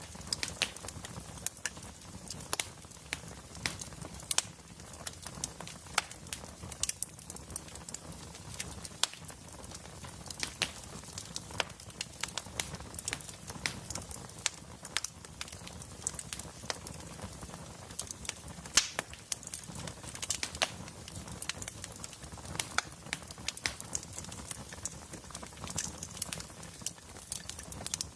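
Wood fire burning in a fireplace, crackling with irregular sharp pops and snaps over a low, steady rumble.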